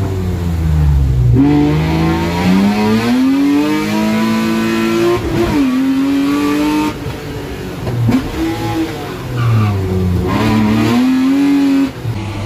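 BMW E36 M3's straight-six engine heard from inside the cabin, revving hard up and down. The revs climb, drop suddenly at a shift about five seconds in, then fall away and climb twice more, and cut off sharply near the end as the throttle is lifted.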